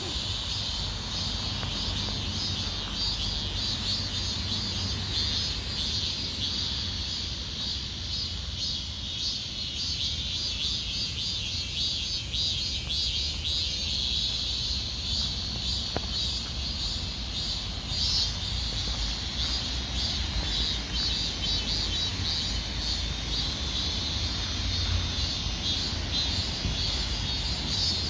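Steady insect chirring over a continuous low rumble.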